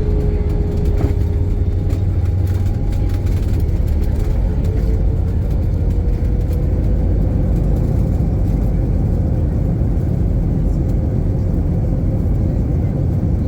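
Airbus A320 engine and airflow noise heard inside the cabin: a steady low rumble with a whining tone that sags slightly and then rises a little, and a brief click about a second in.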